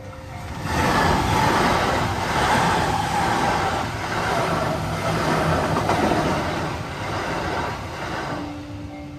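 A train passing by: a loud rumbling rush that builds up about half a second in, holds for several seconds and fades away near the end.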